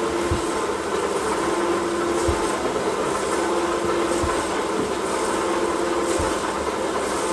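Plastics processing machinery running steadily with a constant hum, and a soft low thump about every two seconds as the machine works through its cycle.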